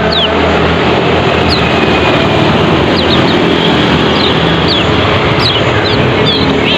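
A small songbird, the kecial kuning of the title, giving short, high, downward-sweeping chirps, scattered and more frequent near the end. The chirps sit over a loud, steady rushing noise.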